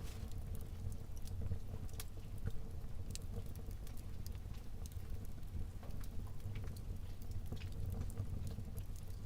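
Wood fire burning in a fireplace: a steady low rumble of the flames with frequent, irregular sharp crackles and pops of the burning logs.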